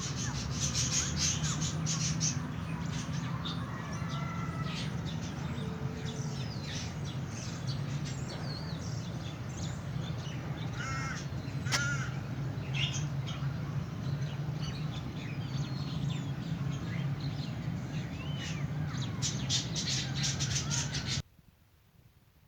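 Lovebirds and canaries calling together: a dense, continuous mix of harsh squawks, chatter and short chirps and whistles over a steady low hum, cutting off abruptly near the end.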